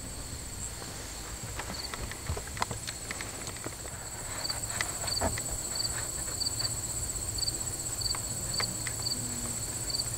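Insects chirping: a steady high buzz with a short chirp repeating about twice a second, with scattered light clicks and taps over it.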